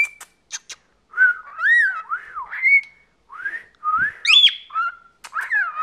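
Cockatiel whistling a string of up-and-down sliding notes, with a few short clicks near the start and one higher whistle rising sharply about four seconds in.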